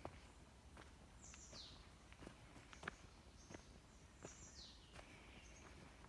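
Footsteps on a forest trail at a steady walking pace, about three steps every two seconds, with faint high-pitched bird calls over them, two of them falling sweeps.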